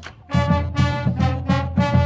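High school band playing an upbeat stand tune: brass in short rhythmic punches over drums, coming back in at full volume after a brief break right at the start.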